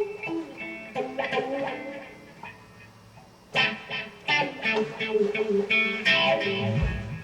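Electric guitar playing the intro, picked notes and strummed chords with sharp attacks every second or so.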